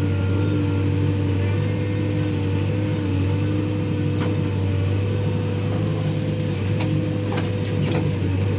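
Diesel engine of heavy machinery running steadily at a constant speed, with a few sharp clicks or knocks in the second half.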